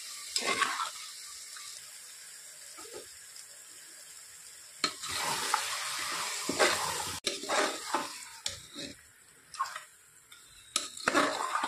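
Chicken and its curd marinade sizzling as they drop into hot onion-tomato masala in an aluminium pressure cooker, a steady hiss for about five seconds. Then a metal spatula stirs and scrapes the mixture around the pot in irregular strokes.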